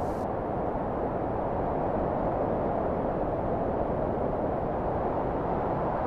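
A steady rushing noise with no distinct tones, strongest in the low-middle range and constant in level.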